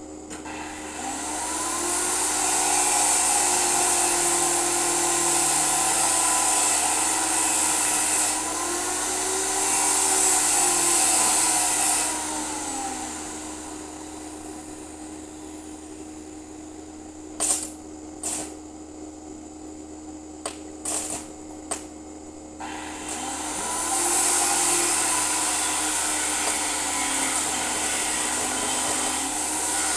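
Handheld electric power tool running in two long spells, its motor pitch dipping and rising as it works. A few sharp knocks fall in the quieter gap between the spells.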